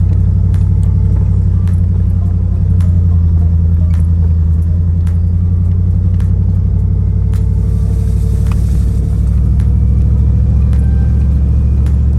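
Four-wheel-drive truck's engine running at low trail speed, a steady low drone that shifts slightly in pitch twice, with scattered sharp clicks and rattles over the top.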